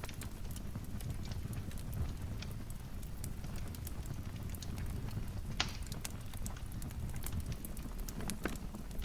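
Wood fire in a fireplace crackling, with irregular sharp pops over a low steady rumble of burning; one louder pop about five and a half seconds in.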